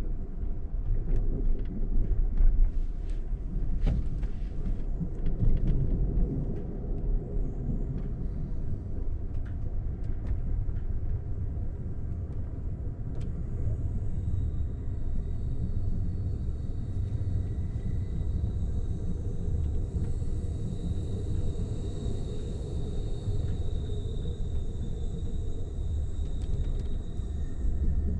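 Low rumble of an Amtrak passenger train running along the track, heard from inside the coach, with scattered clicks and knocks over the first ten seconds or so. From about halfway a faint, high, steady whine rides over the rumble.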